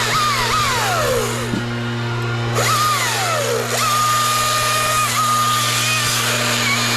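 A small engine revving up and falling back several times, each fall a downward glide in pitch, over a steady low engine drone.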